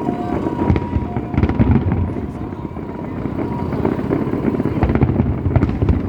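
Fireworks display: a dense, continuous run of booms and crackling. In the first second or so a two-note electronic tone alternates high and low, then fades out.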